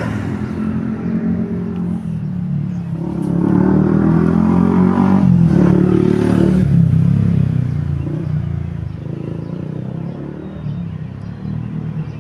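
A motor vehicle's engine running, growing louder about three seconds in as it revs up, then easing off after about seven seconds.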